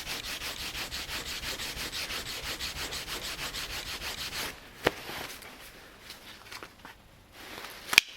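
Sandpaper rubbed back and forth on a maple knife handle in quick, even strokes, about five a second, stopping about four and a half seconds in. A sharp click follows a moment later, and a louder one near the end.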